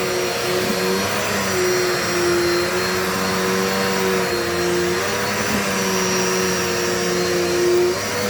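Corded Dirt Devil Multi-Surface vacuum cleaner running steadily as it sucks up a small piece of paper, its motor hum wavering slightly in pitch now and then.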